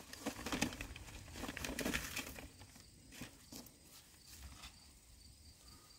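Wood campfire crackling faintly with scattered small pops, thinning out after about two seconds.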